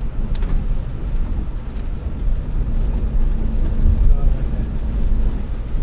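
Steady low rumble of a Honda Elevate on the move, engine and road noise heard inside the cabin, with a faint steady hum through most of it.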